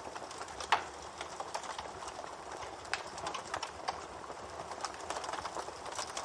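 Campfire crackling: a steady hiss with irregular sharp pops and snaps, one louder crack about a second in.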